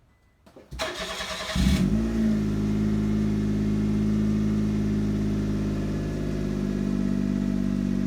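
Suzuki Twin's small three-cylinder engine started: the starter cranks for under a second, the engine catches with a brief flare in revs, then settles into a steady idle through the exhaust.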